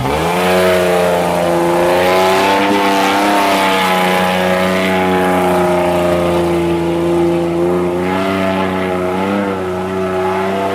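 Off-road Jeep engine held at high revs under load, steady with slight rises and falls, as it pushes through deep mud.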